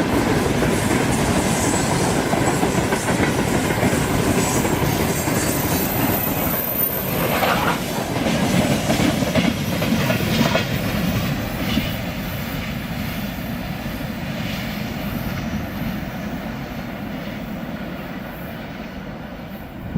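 Freight train wagons rolling past, their wheels clicking over the rail joints with some wheel squeal. About halfway through the sound begins to fade slowly as the train draws away.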